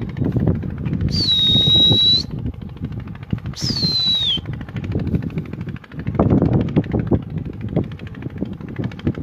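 Uneven rumbling, fluttering noise on the microphone, with two short high whistles early on: the first held steady, the second falling in pitch.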